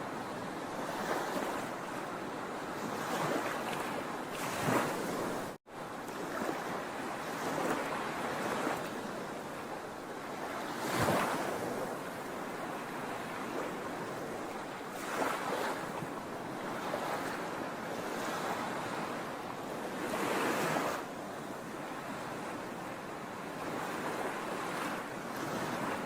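Sea waves breaking and washing up the shore: a steady rushing wash that swells louder every few seconds as each wave breaks. The sound cuts out for an instant about five and a half seconds in.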